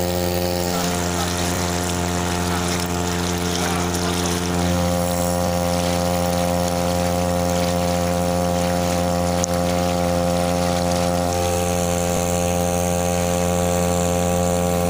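Matsumoto MOB-830 3 hp two-stroke air-cooled outboard motor running steadily under way, a little louder from about four seconds in.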